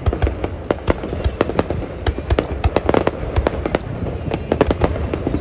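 Fireworks going off: many rapid, irregular bangs and pops over a continuous low rumble.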